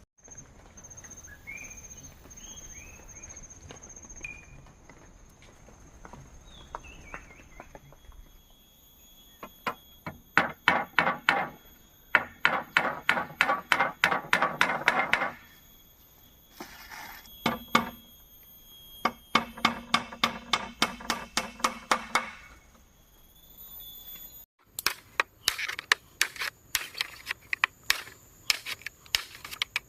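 Bamboo being worked with a hand tool: long runs of sharp, rapid strikes, several a second, in bursts separated by pauses.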